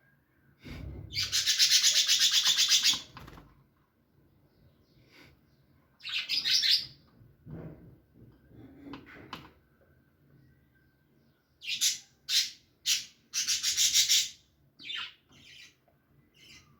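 A parrot screeching in harsh bursts: a long screech about a second in, another around six seconds in, then a run of short screeches and a longer one near the end.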